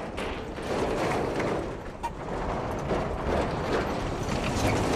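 Australian road train (a heavy truck pulling several trailers) running along the road, a steady engine and road noise.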